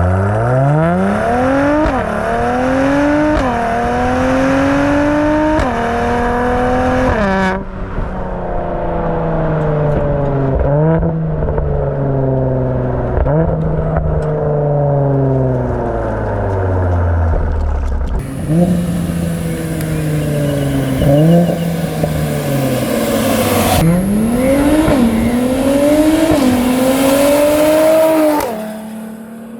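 Mercedes-AMG C43 W205's twin-turbo 3.0-litre V6 through a Secretflow full exhaust with valve control, accelerating hard through the gears, the pitch climbing and dropping at each upshift. About a third of the way in it slows, revs falling with several short blips on the downshifts, then pulls up through the gears again before easing off near the end.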